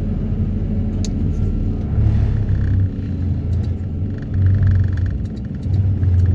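Excavator-mounted Daedong vibro hammer vibrating a steel sheet pile out of the ground: a heavy low hum that swells and eases in several waves, with a few short sharp clicks.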